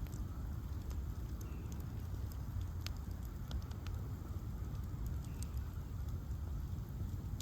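Bonfire of ash logs burning: a steady low rumble with scattered sharp crackles and pops, a few of them louder, about three seconds in and again near the end.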